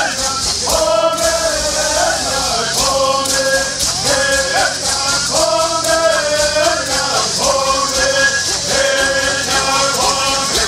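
Men's voices singing a Southern California bird song together in repeated phrases, accompanied by gourd rattles shaken in a fast, steady rhythm.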